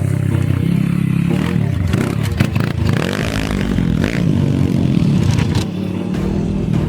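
Kayo TT140 pit bike's 140 cc four-stroke single-cylinder engine revving up and down, with a stretch of rattling noise about three seconds in.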